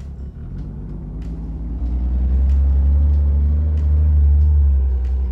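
Toyota Land Cruiser FJ40's engine running low and heavy as the 4x4 crawls through an off-road gully, growing louder from about two seconds in as it works under load, with scattered sharp clicks over it.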